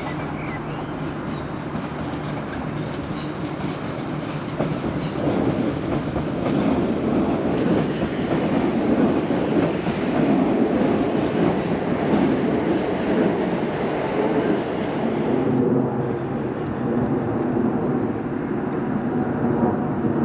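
Electric multiple-unit train running past on the track, growing louder about four to five seconds in and staying loud.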